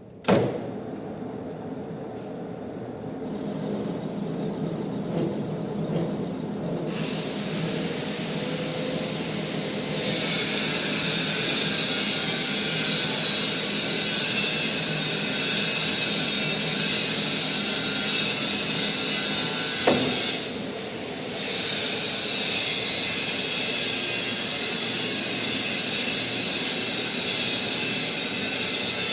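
Manual metal lathe running while cutting the thread on a 100 mm bolt, a steady mechanical din. A sharp knock comes right at the start, and about ten seconds in a loud hiss of cutting joins it. The hiss drops away briefly about two-thirds of the way through, then comes back.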